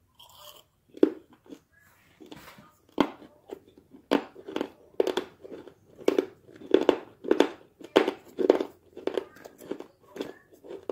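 Close-up chewing of crunchy dried clay: a few separate crunches at first, then a steady run of crunches about two a second from about four seconds in.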